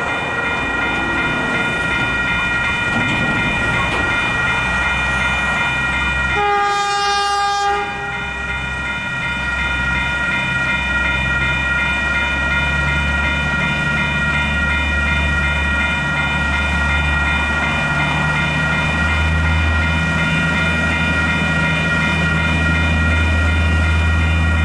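Railway level crossing warning bells ringing steadily, with a short horn note from a KiwiRail DSG diesel locomotive about seven seconds in. The locomotive's diesel engine rumble grows louder and holds steady through the second half as it hauls wagons through the crossing.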